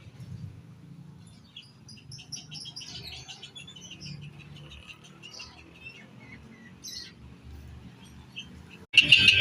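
Songbirds chirping and twittering in short scattered notes over a low steady hum. Just before the end, after a sudden break, a much louder whistled birdsong cuts in.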